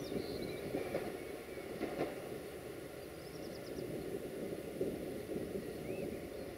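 A train running past or through the station: a steady low rumble with a couple of sharp knocks, about one and two seconds in.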